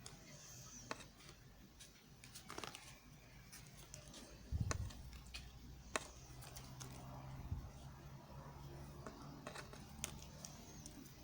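Knife cutting soft soap: scattered light clicks and taps, with a dull thump about four and a half seconds in and a crisp click about a second later.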